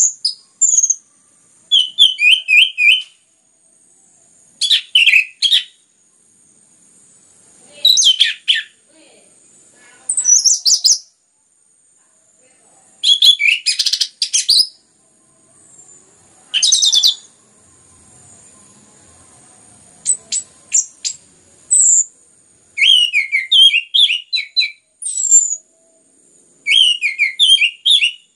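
Orange-headed thrush (anis merah) singing in short, loud phrases of quick, varied whistles and chirps, a new phrase every second or two. A faint, steady high-pitched tone runs underneath.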